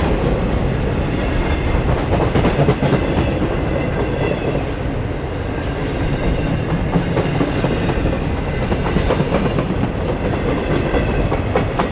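A freight train of empty Railbox boxcars rolling past at close range. It makes a steady rumble of steel wheels on rail, with clicks and clacks as the car trucks pass over the rail joints.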